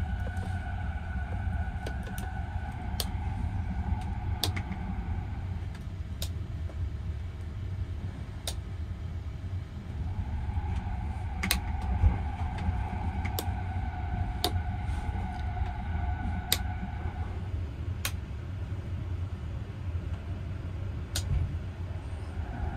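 Sunrise Express sleeper train running, heard from inside a single-room compartment: a steady low rumble, with a mid-pitched hum that fades out and comes back. Sharp clicks and knocks come every second or two at uneven gaps.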